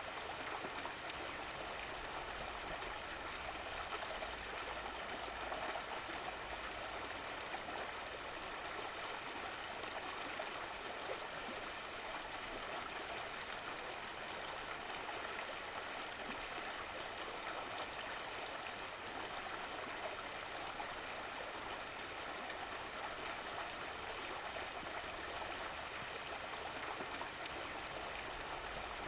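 Running water of a stream or brook, a steady even rush and trickle with no breaks.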